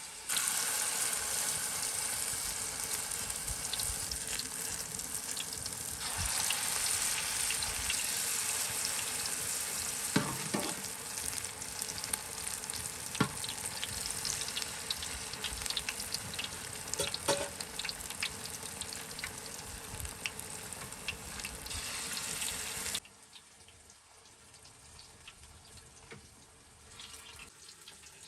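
Food frying in hot oil with a steady sizzle and a few knocks of a utensil against the pan. The sizzle cuts off suddenly about three-quarters of the way through.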